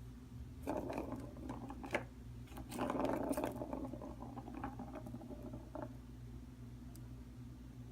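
A cat toy ball being batted and rolled about by a cat: two stretches of scuffing and rattling with a few sharp clicks, over a steady low hum.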